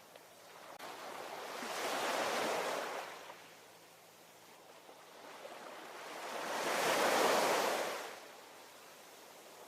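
Ocean waves: two waves swell up and wash away. The first peaks about two seconds in, and a louder one peaks about seven seconds in, with a soft hiss of surf between them.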